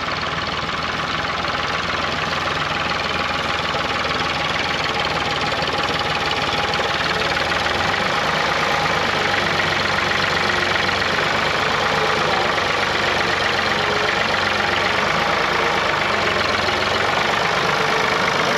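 Tractor engine running steadily with a knocking tone, getting slightly louder toward the end.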